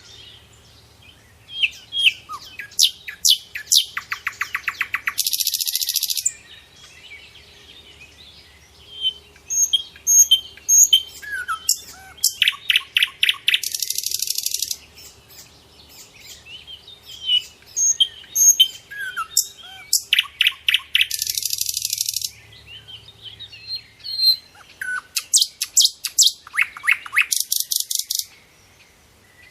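Small birds chirping, with rapid trills and short hissy bursts; the same sequence of calls repeats about every eight seconds.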